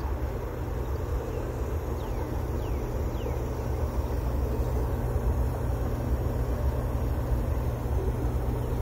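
Distant BNSF manifest freight train rolling past: a steady low rumble. A few short falling chirps sound about two to three seconds in.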